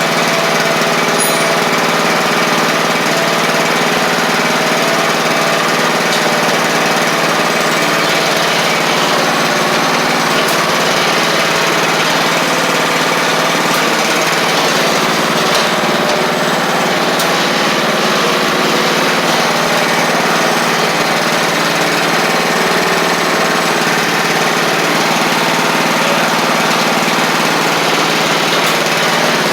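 Craftsman LT1000 lawn tractor's engine running steadily at an even speed. It is still on a leaking carburetor due to be replaced, and the owner wonders whether it also needs a valve adjustment.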